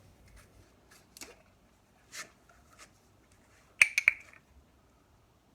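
Plastic quart oil bottles being handled: scattered light clicks and rustles, with a sharp cluster of clicks about four seconds in.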